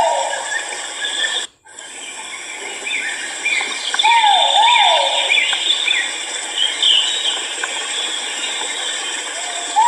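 Great argus pheasant (kuau) calling: a loud two-note call, each note sweeping down, about four seconds in and again near the end. Many shorter high chirps and a steady high hiss run underneath. All sound drops out briefly about a second and a half in.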